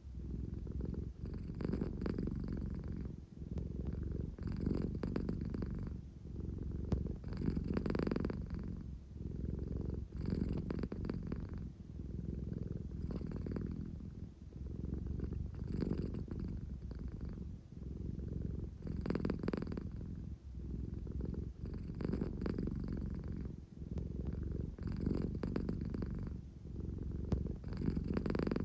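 An American Shorthair cat purring continuously in a low, steady rumble, swelling and dipping in a regular rhythm with each breath. It is the contented purr of a sleepy cat that wants affection.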